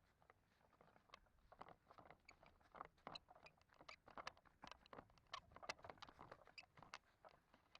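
Faint footsteps crunching on rough ground: a quick, irregular run of small clicks and crunches, busiest in the middle.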